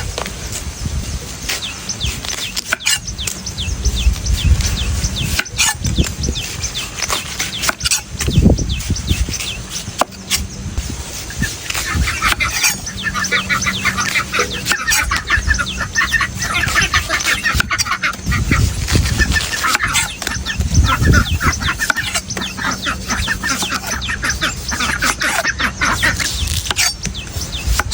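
Irregular sharp strikes and dull thuds of a large knife chopping into coconuts, with birds, likely domestic fowl, calling in the background. The calls grow thick for several seconds in the middle.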